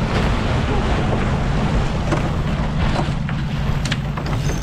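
Strong wind buffeting the microphone aboard a Yamaha 30 racing yacht, over a steady rush of water along the hull in rough waves, with a few sharp knocks.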